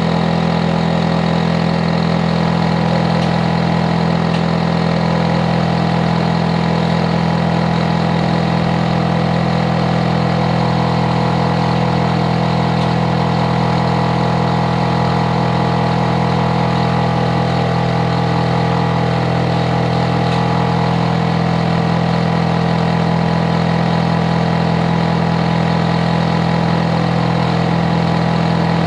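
Hitachi air conditioner outdoor unit running with a steady, loud hum made up of several even tones, unchanging throughout.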